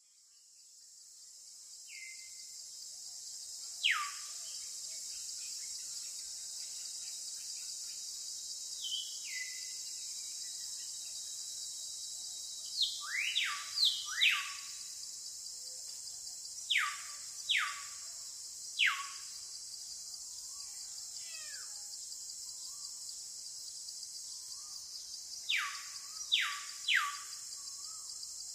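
Bird calls: loud, short whistles that each sweep steeply down in pitch, some single and some in quick runs of two to four. Beneath them is a steady high-pitched hiss that fades in over the first couple of seconds.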